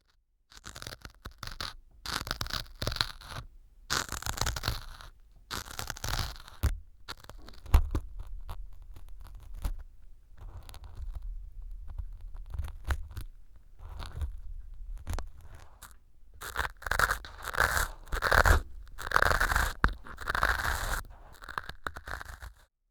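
Ear pick scraping and crunching through pieces of floral foam packed into a silicone ear on a binaural microphone, in irregular strokes with a few low thumps, getting denser near the end.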